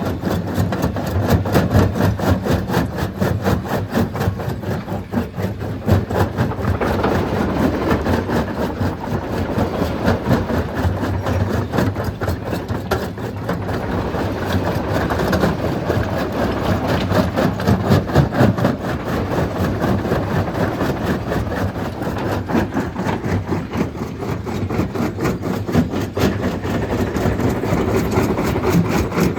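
Stone crushing machine running under load, a steady heavy machine noise with a dense, continuous clatter of rock being broken.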